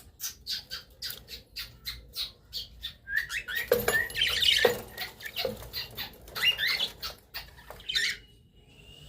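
Caged budgerigars calling: a run of short, quick chirps about three a second, then a louder stretch of scratchy squawking chatter, with scattered calls after it.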